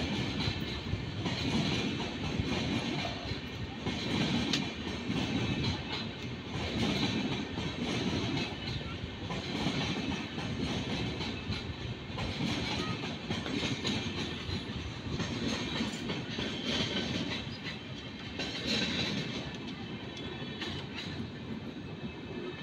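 Passenger train coaches rolling past at speed, the wheels clattering over rail joints in a swell every second or two, fading toward the end.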